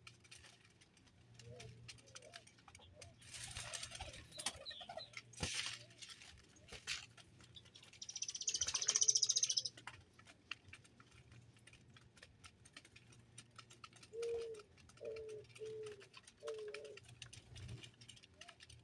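Birds around a feeder: a brief flurry of wingbeats, a loud high-pitched call lasting about two seconds, then four short low calls near the end, over scattered small clicks.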